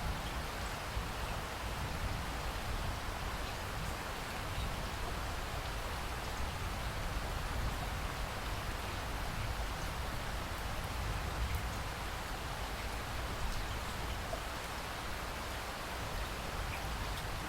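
Steady rainfall, a continuous even hiss of rain with a low rumble beneath and a few faint individual drop ticks.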